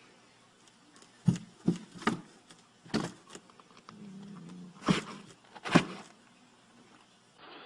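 About six sharp knocks at uneven intervals, with a faint low hum briefly between them.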